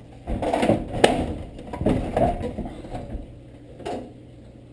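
Over-the-range microwave being lowered off its wall mount: about three seconds of clunking and scraping, with a sharp knock about a second in and a shorter one near the end.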